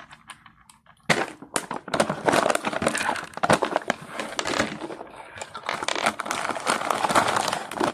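Crunchy cookie being chewed close to the microphone: about a second in, a dense, crackly crunching starts and keeps going.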